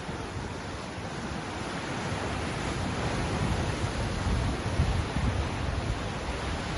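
Ocean surf washing in a steady rush of noise with a low rumble underneath, swelling slowly over the first few seconds.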